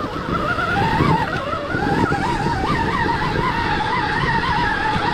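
Stark Varg EX electric dirt bike's motor whining, its pitch wavering up and down with the throttle, over a heavy rumble of knobby tyres and chassis on rough ground.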